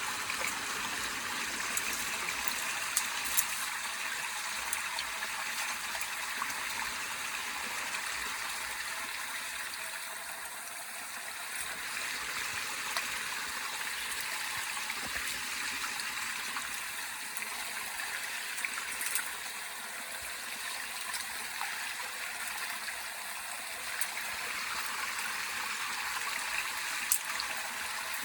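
Water running steadily, with a few brief sharp clicks scattered through.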